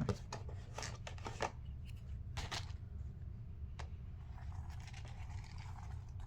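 Milk being poured into a plastic bowl of puffed-rice cereal. A few short clicks and rustles come first as the container is handled, then a softer, steady pouring sound from about four seconds in.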